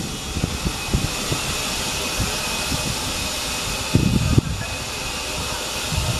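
Container freight train running away at speed along the track, its wagons rolling on the rails with a steady rushing hiss. Low rumbling gusts come through about four seconds in and again near the end.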